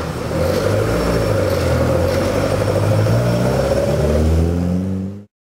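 Ford Escort Mk2 RS rally car's engine running at low revs as the car pulls slowly away, the note rising a little near the end before it cuts off suddenly.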